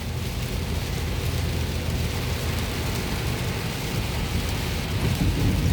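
Rain hissing steadily on a moving car, heard from inside the car, with a low rumble of thunder building near the end, following a nearby lightning strike.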